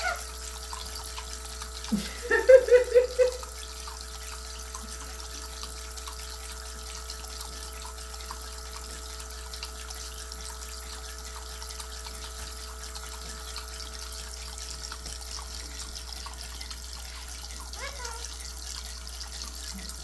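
Water running steadily in a sink or bath, with a faint steady hum. About two seconds in comes the loudest sound, a short burst of about five rapid, pulsed vocal sounds, with a fainter brief one near the end.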